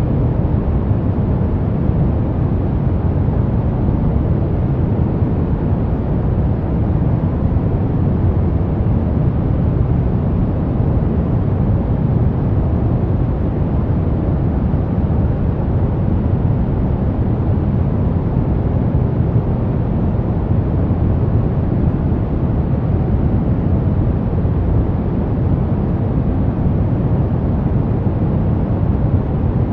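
Steady brown noise: a deep, even hiss with most of its weight in the low end, unchanging throughout.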